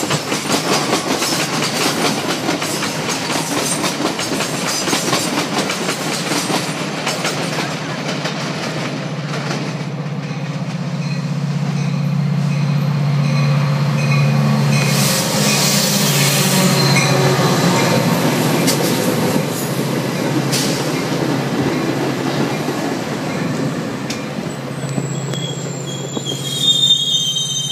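Metra commuter train arriving. Rail cars clatter over the track, then the low, steady engine of the diesel locomotive is heard as it pulls in. Near the end come high-pitched wheel and brake squeals as the bilevel coaches slow to a stop.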